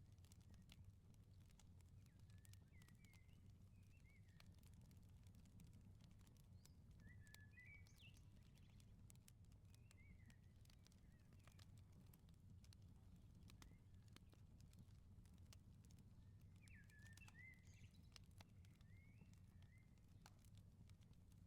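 Faint firepit crackle, scattered sharp pops and clicks over a low steady rumble, with small birds giving short warbling chirps several times.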